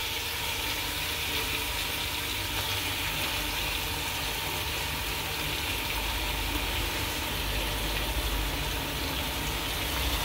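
Food frying in a pan, with a steady sizzle.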